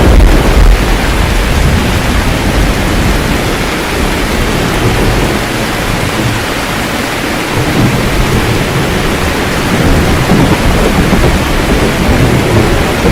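Steady heavy rain with thunder rumbling low underneath, strongest in the first second, easing, then building again later.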